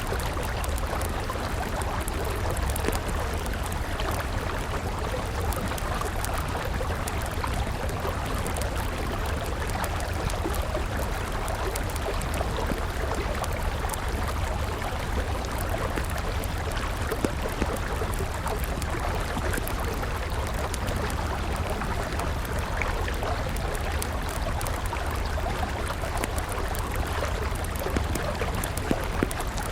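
Steady rush of a flowing river mixed with the crackle of a wood campfire, with frequent small pops.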